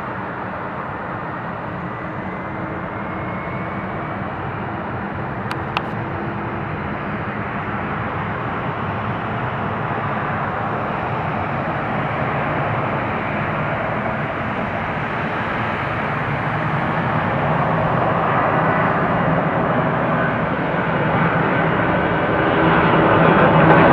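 Boeing 757-200 jet engines at takeoff power, a steady rumbling roar that grows gradually louder. A single short click about five and a half seconds in.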